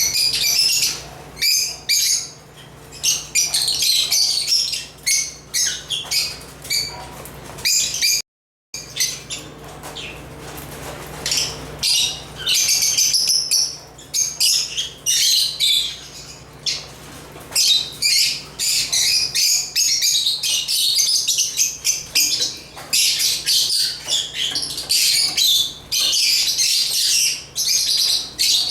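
African lovebirds (Agapornis) chirping, a dense run of short high-pitched calls one after another. The sound cuts out completely for about half a second around eight seconds in.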